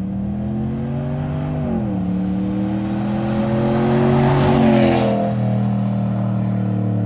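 2019 Ram 1500's 5.7 L Hemi V8 through a Flowmaster Outlaw muffler with both resonators deleted, driving past under throttle. The engine note drops once about two seconds in, like a gear change, then swells to its loudest as the truck passes about four and a half seconds in and eases off.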